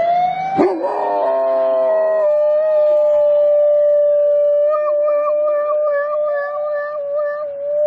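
Dog howling: one long, drawn-out note that rises at the start and is then held nearly level, wavering slightly, with a fainter tone sliding down and back up beneath it.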